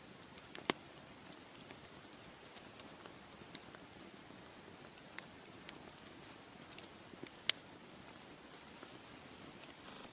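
Wood fire crackling: a soft steady hiss with irregular sharp pops, two louder snaps about a second in and near three-quarters of the way through.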